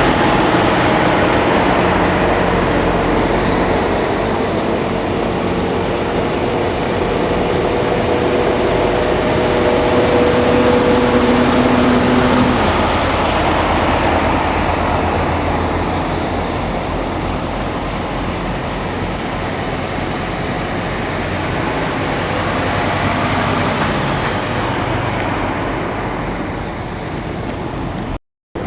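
Heavy semi trucks driving past: diesel engine and tyre noise, continuous and loud, with a steady engine hum that stops about halfway through. The sound cuts out for a moment near the end.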